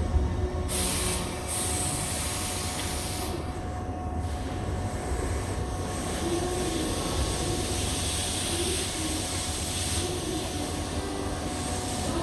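Tobu 8000-series electric train at a station platform: a steady low rumble with a faint hum, and a burst of high-pitched hissing from about a second in to about three seconds in.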